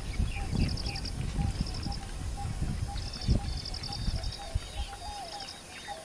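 Wild birds calling: short, fast-pulsed high calls repeated every second or so, over a lower note repeated several times a second that turns into gliding notes near the end. A low rumble underneath fades out after a few seconds, and there is a single knock about three seconds in.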